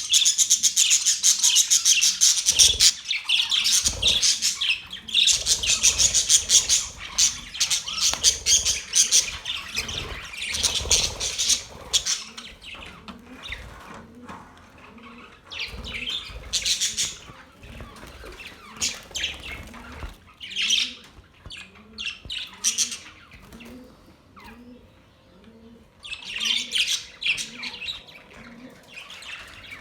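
A flock of budgerigars chirping and squawking. The chatter is dense and continuous for the first dozen seconds, then thins to separate bursts of calls with short lulls between.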